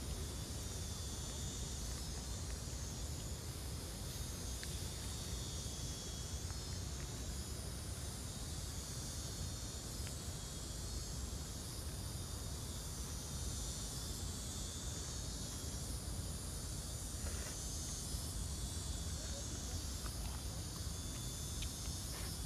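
Steady high hiss over a constant low rumble, with a few faint clicks here and there.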